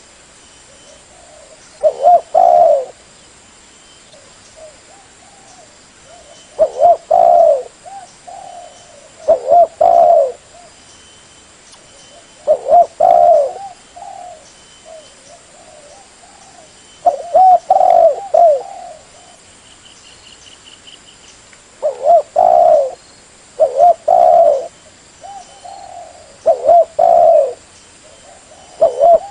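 Spotted dove cooing as a lure call. It gives loud, short phrases of two or three low coos every few seconds, with softer coos in between.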